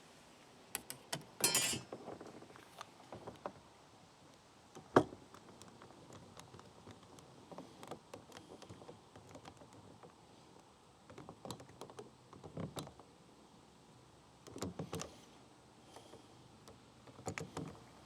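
Scattered clicks, taps and light rattles of hands working the kayak landing-gear crossbar and a tape measure, with one sharp click about five seconds in and short rattling clusters near the start, past the middle and near the end.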